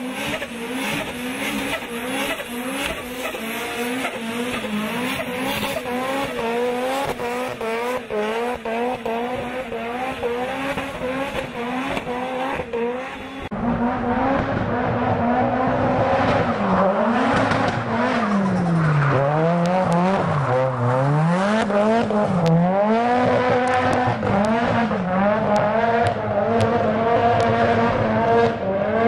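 Nissan Silvia's SR20 four-cylinder engine revving hard while drifting, the revs rising and falling quickly over and over, with tyres squealing. In the second half the revs dip lower and climb back in longer swings.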